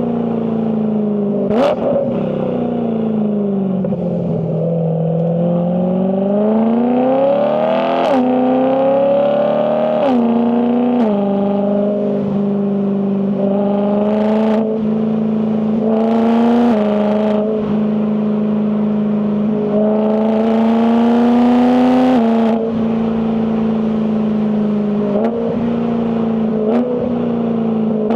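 BMW E92 M3's S65 4.0-litre V8 running under load, its pitch rising and falling as the car speeds up and slows. There are quick gear changes from the dual-clutch gearbox, each marked by a sharp crack and a sudden drop in pitch, several times.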